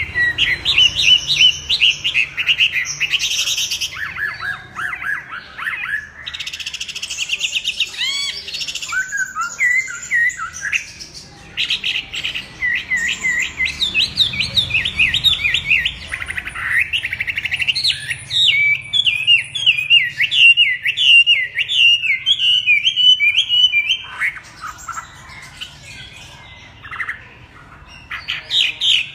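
A songbird singing a long, varied song of rapid repeated whistled and slurred notes, changing phrase every few seconds. The song goes quieter for a few seconds near the end, then resumes.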